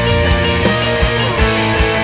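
Instrumental post-rock/metal music: distorted electric guitars playing sustained chords over bass, with steady drum hits.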